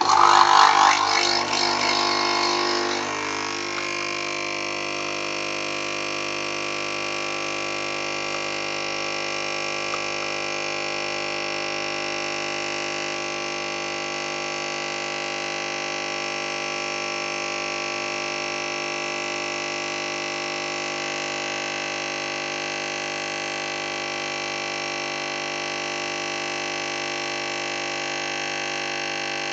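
Nespresso Pixie capsule machine's pump starting up and brewing a lungo: a sudden loud, rough start for about three seconds, then a steady buzz.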